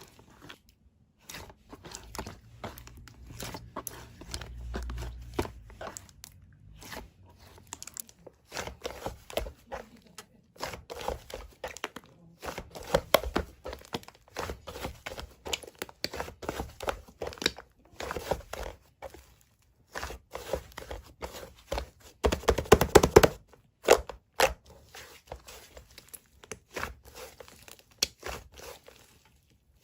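Close, irregular crunching and crinkling with tapping knocks, densest about two-thirds of the way through.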